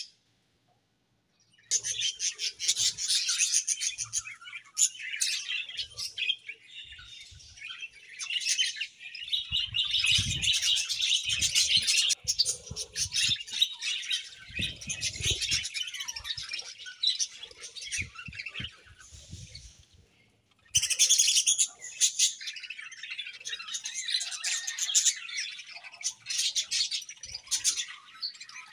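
A flock of budgerigars chirping together in dense, rapid chatter. It starts about two seconds in, drops away briefly near the end and then starts up again.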